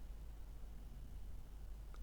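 Quiet background with only a faint, steady low rumble and no train passing.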